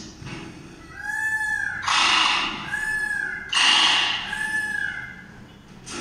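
Horse whinnying and snorting: three short, high calls that each rise and fall, with loud breathy snorts between them.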